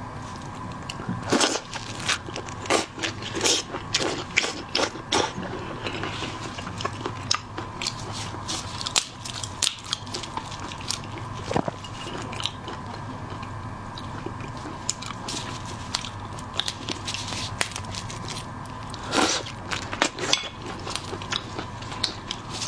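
Close-up eating of shell-on seafood: crisp crunching and cracking with chewing, in clusters of sharp clicks. It is busiest for the first few seconds and again in a burst near the end, sparser in between.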